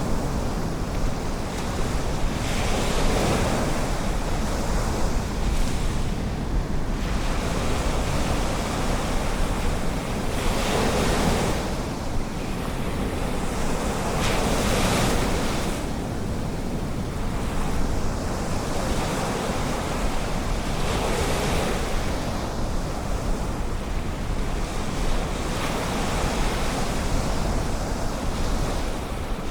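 Ocean surf breaking and washing up the beach, swelling louder every few seconds, over a steady low rumble of wind on the microphone.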